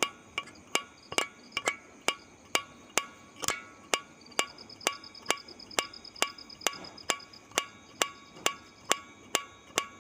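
Steady, evenly spaced knocks, a little over two a second, each with a short ringing tone, like a metronome or wood block. A faint, fast high trill sounds over them from about four seconds in until about seven seconds.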